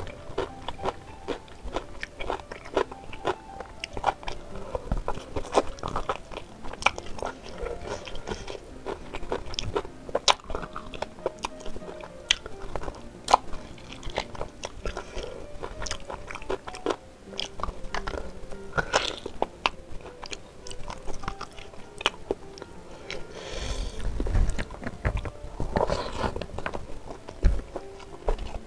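Close-miked eating sounds of a man biting and chewing beef rib meat and rice eaten by hand: a steady run of wet mouth clicks and chewing.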